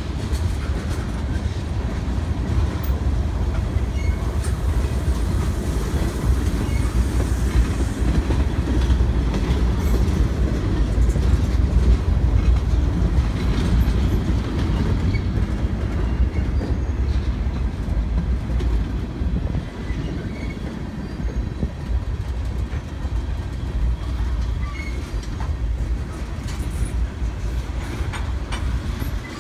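Freight cars, including tank cars, rolling past close by: a steady heavy rumble with the clickety-clack of wheels over the rail joints.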